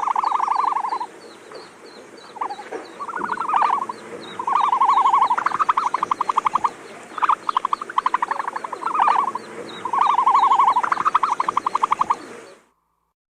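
Frogs calling: a series of pulsed trills about a second long each, with faint high chirping behind them. The sound stops abruptly near the end.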